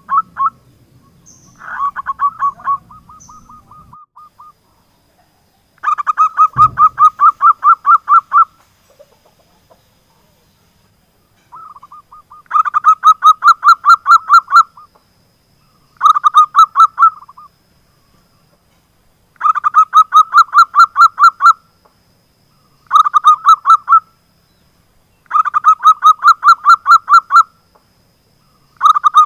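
Zebra dove (perkutut) singing its staccato cooing song: repeated phrases of quick, evenly pulsed notes, each phrase lasting one to three seconds with short pauses between. A brief low thump sounds about six and a half seconds in.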